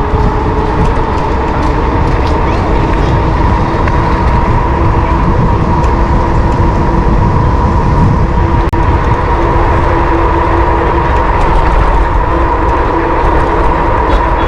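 Wind rushing over the microphone of a GoPro riding on a moving electric bike, heaviest in the low end, with a steady whine under it.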